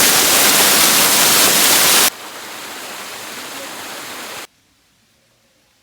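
Waterfall rushing loudly close by, cutting off abruptly about two seconds in to a much quieter rushing noise, which itself cuts off about four and a half seconds in to near silence.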